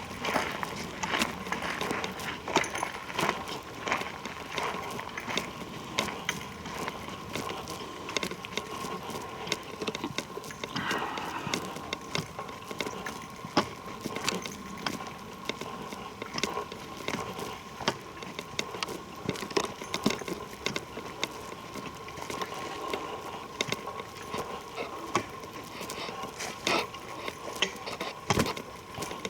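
Footsteps of people walking on a trail: irregular crunching steps, about two a second, over a faint steady high hum.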